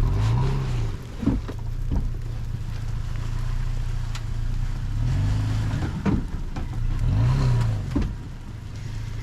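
Toyota Tacoma pickup's engine revving up and falling back several times as the truck tries to drive out of slushy snow, with a few short knocks in between.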